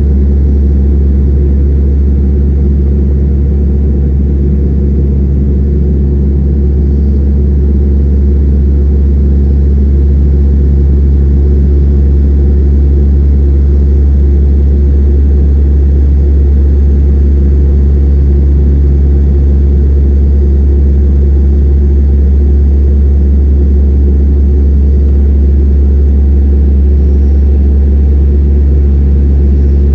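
Dash 8-300 turboprop running with a loud, steady low drone that holds one pitch and level, with no change.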